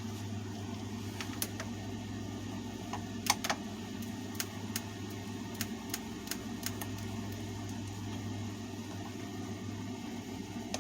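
Scattered light clicks and taps of a screwdriver and plastic fan-housing parts being handled while the fan is taken apart, two louder clicks close together about three seconds in, over a steady low hum.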